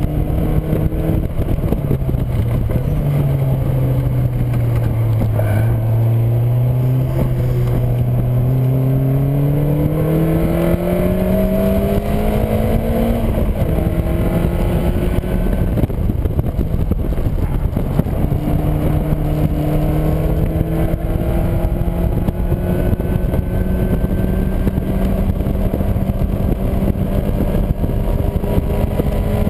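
Caterham Seven's 1.6-litre engine under hard driving, heard from the open cockpit: the revs fall about a second in, stay low for a few seconds, then climb steadily until a sudden drop at an upshift about thirteen seconds in, after which they rise slowly again. Steady wind and road rush underneath.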